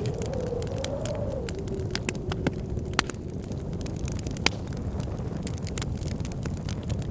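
Wood fire crackling with frequent sharp pops, over a steady low rumble and the howl of blizzard wind whose pitch wavers and drops about a second and a half in. Two pops stand out, about three seconds in and again a second and a half later.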